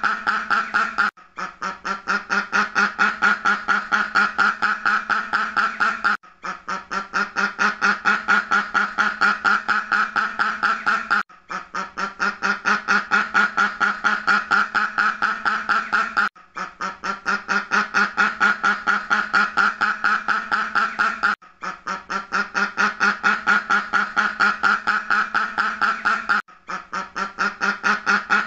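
Duck quacking in fast continuous runs, about six quacks a second. It is a short recording looped over and over: each run lasts about five seconds, with a brief break before it starts again.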